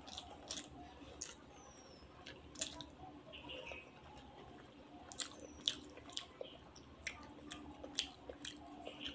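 Close-miked chewing of a mouthful of soft rice: wet mouth clicks and lip smacks at an irregular pace, coming thicker and sharper about five to eight seconds in.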